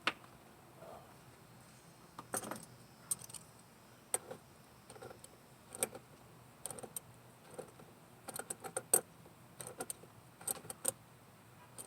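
Scattered light metallic clicks and clinks, some in quick clusters in the second half, as the fill cap on an outboard's trim-and-tilt reservoir is worked tight by hand and tool.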